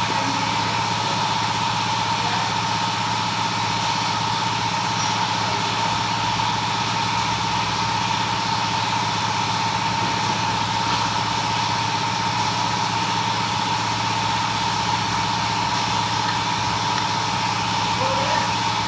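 An engine running steadily at idle, an even, unchanging hum with a strong steady whine in it.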